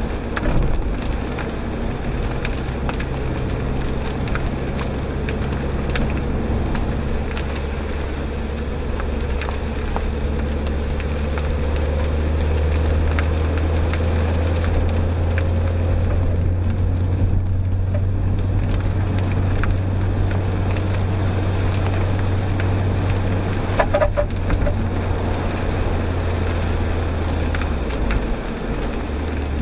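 Mazda MX-5 NB 1.8 inline-four engine running steadily, heard inside the cabin over the hiss and crackle of heavy rain and tyre spray on a flooded road. The engine note grows louder through the middle and drops away near the end at a gearshift.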